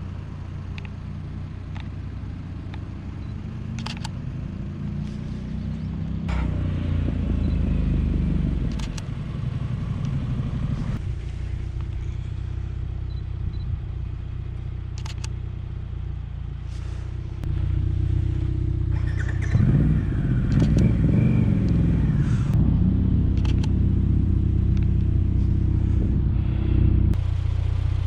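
Cars running and driving past on the road, with two louder pass-bys whose engine note rises and falls, about seven seconds in and again around twenty seconds in.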